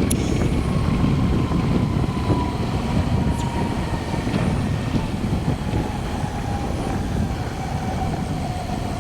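Wind buffeting the microphone during a bicycle ride, a steady low rumble, with a faint thin whistle that slowly falls in pitch.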